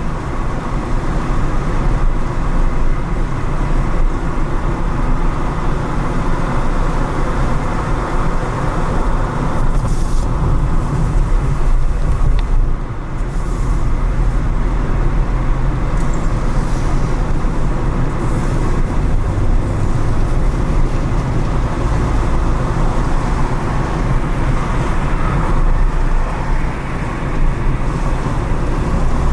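A car driving on city streets: steady engine and tyre rumble with road noise, heaviest in the low end, easing briefly about halfway through.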